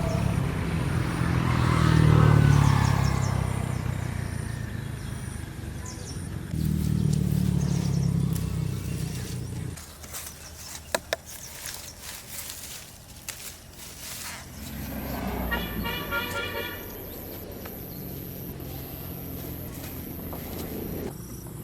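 A motor vehicle's engine passes twice, rising and then fading each time. Later comes a brief high warbling tone that pulses about five times a second, like a horn.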